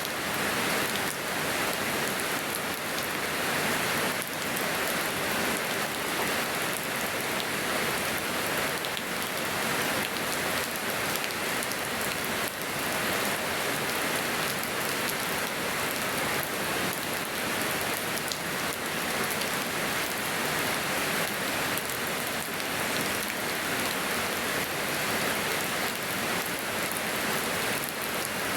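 Steady rain falling and pattering on surfaces, an even hiss of drops with no change in intensity.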